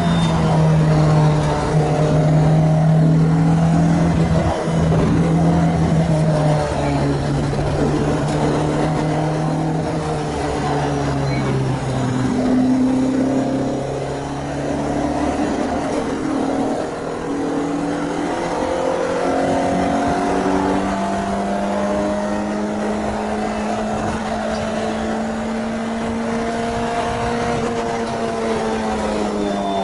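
Renault Clio 2 RS MiniCup's four-cylinder 2.0-litre engine, freshly rebuilt, running hard at high revs on track. The pitch steps down a few times in the first half, holds one high steady note for several seconds in the second half, then falls away near the end as the car slows.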